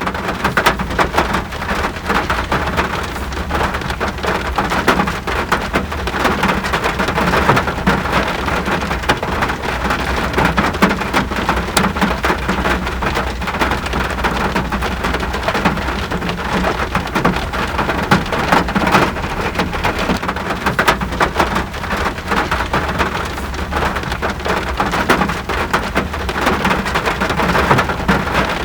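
Steady rain falling on a surface: a dense, even patter of many close drops.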